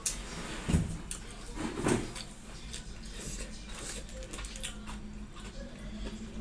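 Eating sounds: chewing and small mouth and utensil clicks, with a dull bump a little under a second in.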